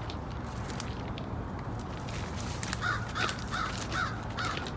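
A crow cawing: a quick series of about six short, harsh caws in the second half.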